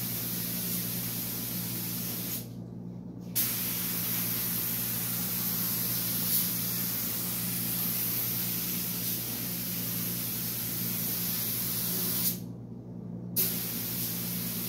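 Compressed-air paint spray gun spraying primer in a steady hiss, released twice for about a second and restarting each time with a short pop. A steady low hum runs underneath.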